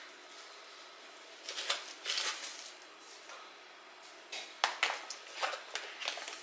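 Intermittent clicks and short rustling or scraping sounds of small objects being handled, with the sharpest clicks a little after four seconds in.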